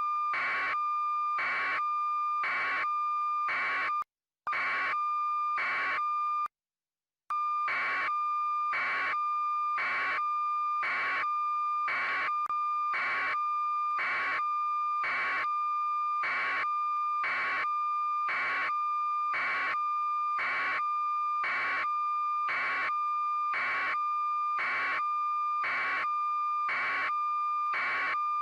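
A steady electronic tone near 1 kHz with a beep pulsing about twice a second, cut by two brief dropouts about four and seven seconds in.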